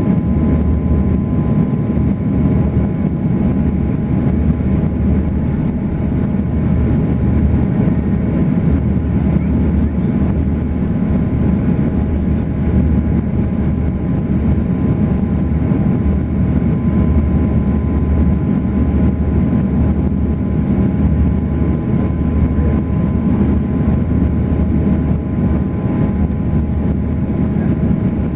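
Steady in-flight cabin noise of an Airbus A340: an even, deep rumble of engines and rushing air with a few faint steady tones on top, unchanging throughout.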